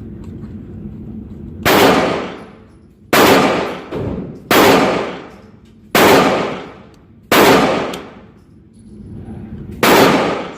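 Single 9mm pistol shots from a Glock fired at a slow, steady pace, six in all, about one every second and a half with a longer pause before the last. Each is a sharp crack that dies away over about a second.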